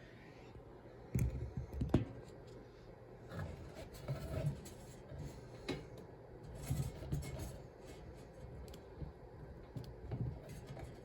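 Hands working at the heavy-gauge metal retaining clip on a box fan's plastic blade hub, trying to pull it off: scattered small clicks, scrapes and light knocks, the sharpest clicks about a second and two seconds in.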